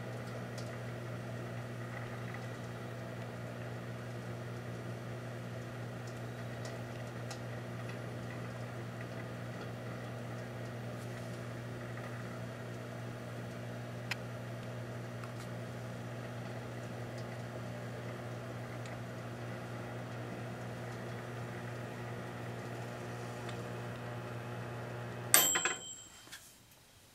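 Proctor-Silex microwave oven running with a steady hum for about 25 seconds, then cut off with a sharp click as it is stopped early.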